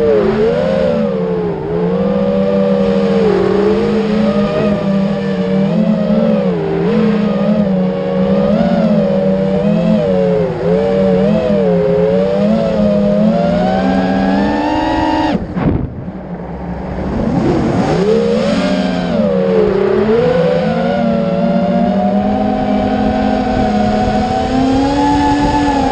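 Racer Lion 210's engine running hard under constantly changing throttle, its revs rising and falling. The pitch climbs steadily to a peak about fifteen seconds in, drops off suddenly for a moment as the throttle closes, then picks up again.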